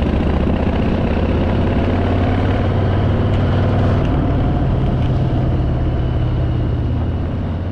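Harley-Davidson Fat Boy's V-twin engine running steadily while riding, under a steady rush of wind and road noise.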